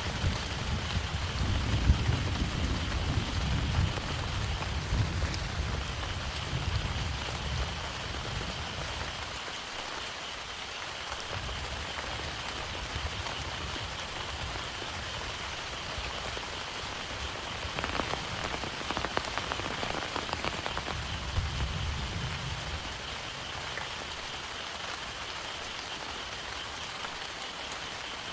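Heavy rain falling steadily, with a low rumble of thunder dying away over the first several seconds and a brief low swell again past the middle, where a cluster of louder drops patters.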